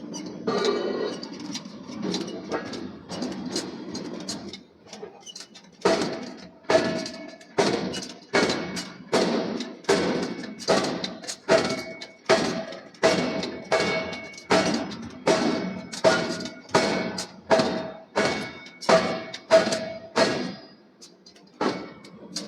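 Repeated hammer blows on steel in forging, about three strikes every two seconds, each with a metallic ring. They begin about a quarter of the way in and stop shortly before the end, after a stretch of irregular, quieter knocking and scraping.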